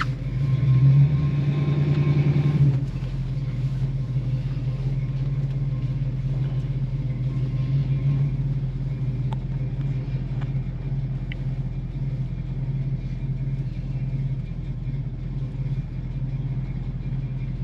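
1964½ Ford Mustang's F-code 260 V8 engine pulling away under acceleration for about the first three seconds, then running steadily as the car drives on. It has a mild cam, not super aggressive.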